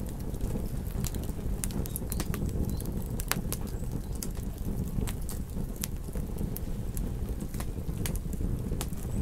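Campfire crackling: irregular sharp pops and snaps of burning wood over a steady low rumble of flames.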